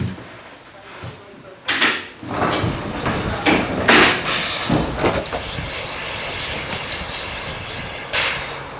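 Steam railway at work: a sudden loud clank about two seconds in, then several seconds of hissing and knocking with repeated sharp peaks, and another short burst near the end.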